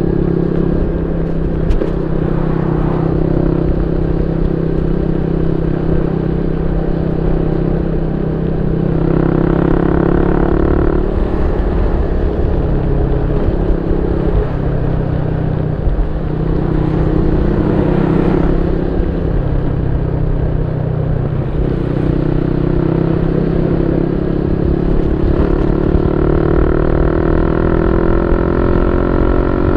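Yamaha Y15ZR's 150cc single-cylinder engine running through a YYPANG SD3 aftermarket exhaust. The note holds steady, shifts in pitch several times as the throttle changes, and climbs near the end.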